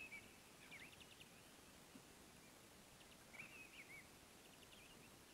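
Near silence outdoors with small birds chirping faintly now and then: short twittering calls at the start, about a second in, and again around three and a half seconds in.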